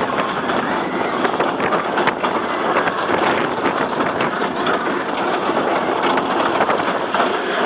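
Iron Dragon suspended roller coaster in motion: the train's wheels rattle steadily along the steel track, mixed with rushing air.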